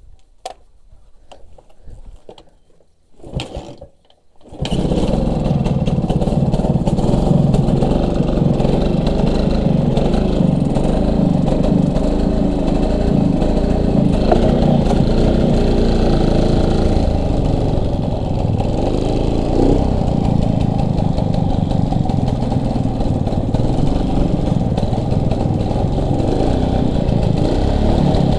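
A few knocks, then a motorcycle engine starts about five seconds in and runs steadily and loudly.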